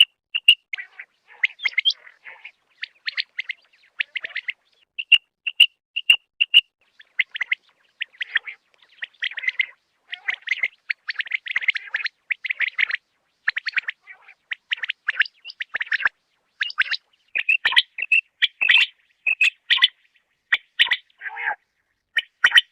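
Common quail calling: short, high chirping calls repeated in quick series, with brief pauses between bursts.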